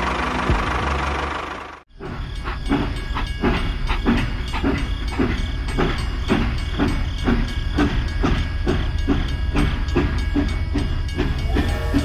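Battery-powered toy train running along a plastic track: a steady low motor hum with regular wheel clicks about three a second. It starts about two seconds in, after a steady hiss that cuts off.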